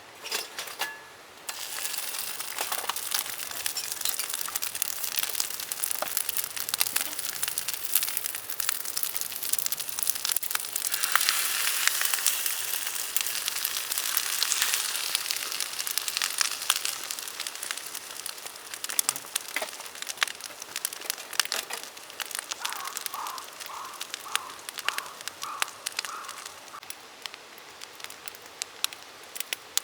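Fried rice sizzling in a hot pan over a campfire, a dense crackling that starts about a second and a half in, is loudest midway and thins out toward the end.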